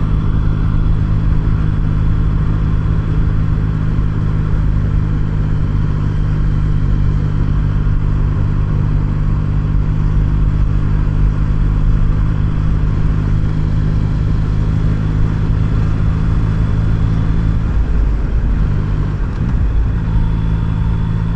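Yamaha MT-09's inline three-cylinder engine running at a steady pace while riding. Near the end the engine speed dips briefly and then picks up again.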